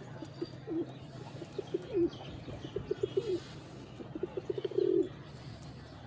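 Pigeons cooing: about four phrases, each a quick run of low pulses ending in a longer held coo.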